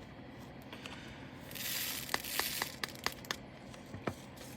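Small plastic bag of leftover diamond painting drills being handled: a crinkle of plastic about one and a half seconds in, then a few light clicks as the drills and bag are moved.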